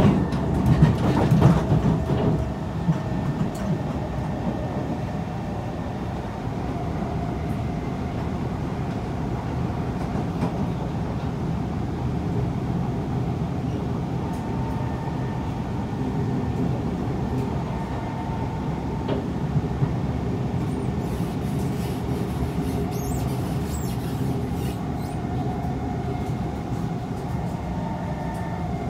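Kawasaki C151 metro train running between stations, heard from inside the car: a steady rumble of wheels on the rails with a faint steady whine. The rumble is loudest in the first couple of seconds, and a few brief high squeals come about three quarters of the way in.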